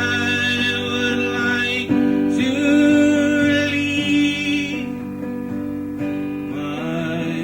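Instrumental music: an acoustic guitar strumming held chords, which change about every two to three seconds.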